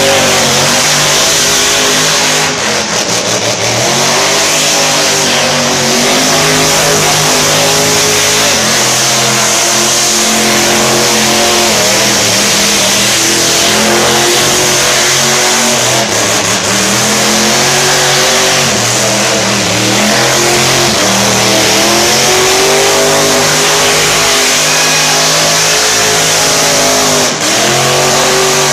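Supercharged Ford truck engine revving hard during a burnout, its pitch rising and falling again and again, over a steady hiss.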